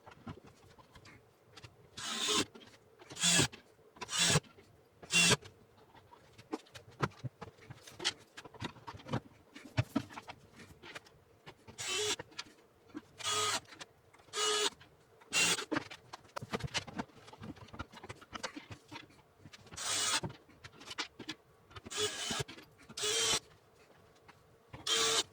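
Cordless drill/driver driving screws in short bursts of about half a second each, a dozen in all, coming in groups of three or four: cabinet door hinges being screwed back on.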